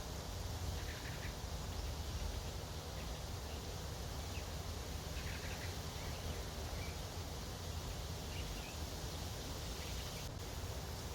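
Wind blowing over the microphone, a steady low rumble with a hiss above it, with a few faint short high chirps every few seconds.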